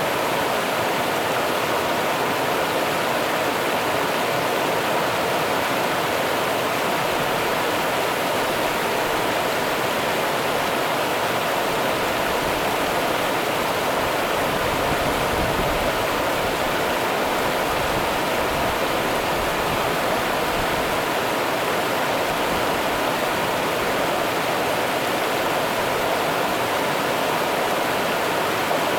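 The Rio Grande's water running and rushing steadily, an even noise without breaks.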